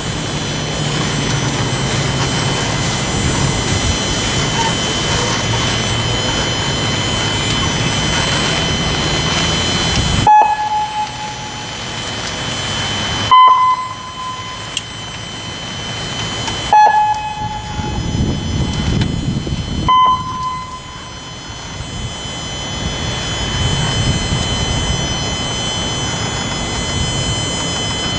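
Steady road noise of a vehicle being driven, broken four times by a sudden short tone about three seconds apart, each alternately a little lower and a little higher in pitch.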